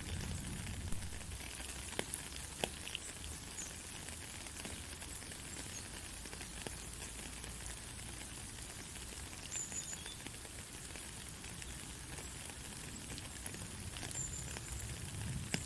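Steady rain falling: a continuous even hiss with scattered sharp drip ticks.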